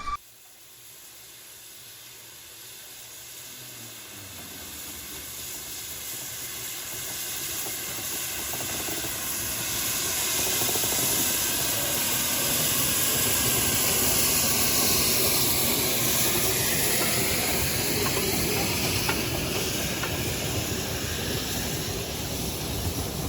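Narrow-gauge steam locomotive hissing steam as it draws nearer: the hiss grows steadily louder over the first dozen seconds or so, then holds.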